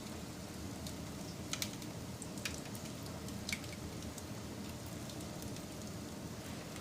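Wood fire crackling, with a steady low rumble and a few sharp pops, the loudest about one and a half, two and a half and three and a half seconds in.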